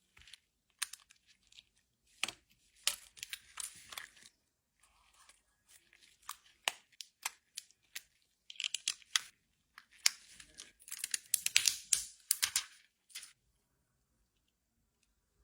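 Tearing and crinkling of plastic film or packaging, in irregular rasps with sharp small clicks, stopping about two seconds before the end.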